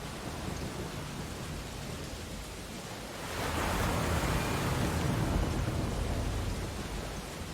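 Ocean waves on a beach: a steady surf hiss, with one wave swelling louder about three seconds in and washing back down near the end.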